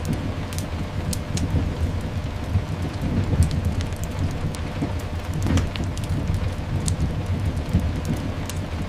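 Layered ambience of steady rain and a continuous low rumble, with scattered sharp crackles and pops from a fireplace.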